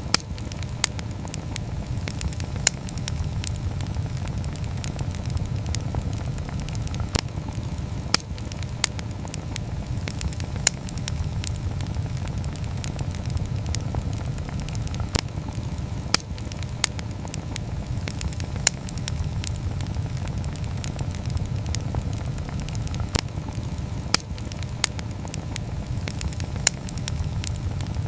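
Wood fire burning, with a steady low rumble and sharp, irregular crackles and pops a few times a second.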